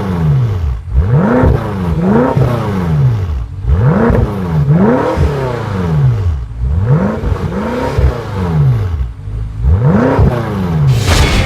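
BMW M5 F10's twin-turbo V8 being revved repeatedly, about eight blips, each rising quickly and falling back toward idle, heard through its exhaust.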